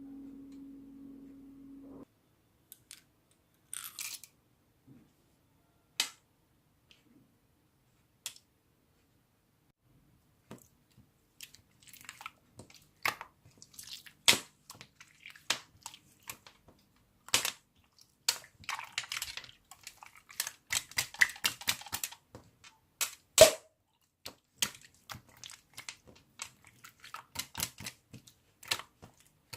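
Slime being pressed and squished by hand, giving sharp clicks, pops and crackles. These are scattered at first and come thick and fast in the second half. A low steady hum stops about two seconds in.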